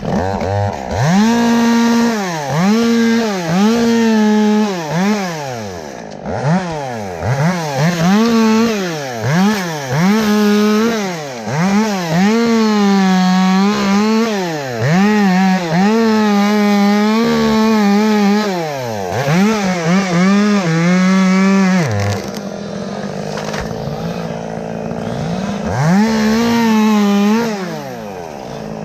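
Two-stroke chainsaw revved up and down over and over, held at full throttle for a few seconds at a time, dropping back to a low idle about three-quarters of the way through before revving up again.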